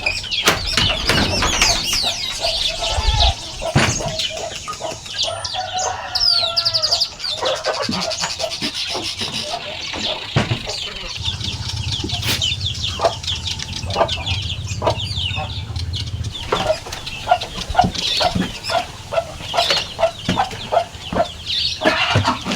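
A flock of young chicks peeping constantly in quick, high-pitched chirps, with some chicken clucking among them. Scattered knocks and scrapes come from the feeding area being cleaned.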